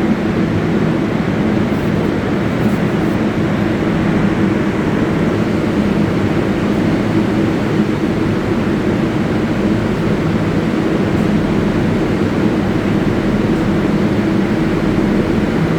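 New York City Subway train at an underground terminal station, giving a steady mechanical hum and rush that holds an even level throughout.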